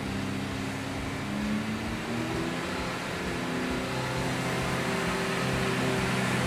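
Honda Civic Si's L15B 1.5-litre turbocharged four-cylinder running under load on a chassis dyno. It is held at set engine speeds of about 3,000 and then 3,800 rpm while the throttle is opened further and boost builds, and the engine note steps up in pitch.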